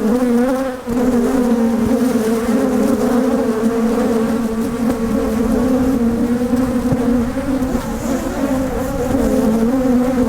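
Steady, loud buzzing of a large mass of honeybees around an opened hive, a single even hum. The queenless colony is agitated from being smoked and disturbed.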